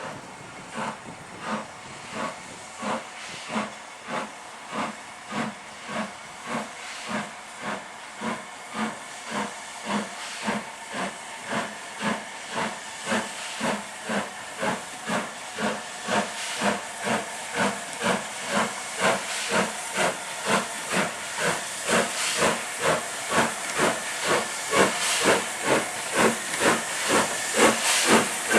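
Steam locomotive working a train: regular exhaust chuffs from its chimney, about two a second, growing steadily louder as it approaches.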